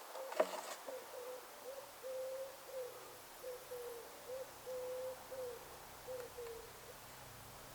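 A run of low hooting notes, some held for half a second, others short or falling in pitch, with a single sharp knock about half a second in.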